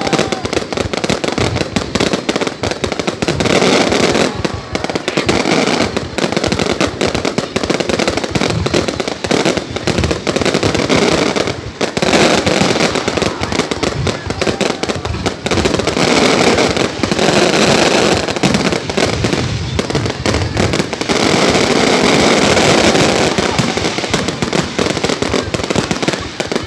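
Fireworks display: a dense, unbroken run of bangs and crackling, loud throughout, with a few brief lulls.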